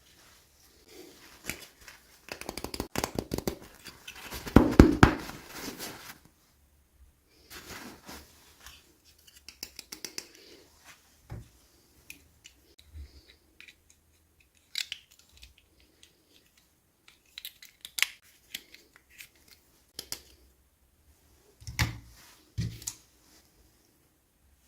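Toy packaging being opened and handled: a dense run of crinkling and clicking for a few seconds, loudest about five seconds in, then scattered sharp clicks and taps, with two duller knocks near the end.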